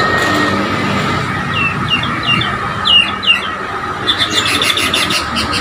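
White-rumped shama (murai batu Borneo) calling: a run of short down-slurred chirps, then a fast rattling series of sharp notes near the end, over a steady high-pitched hum.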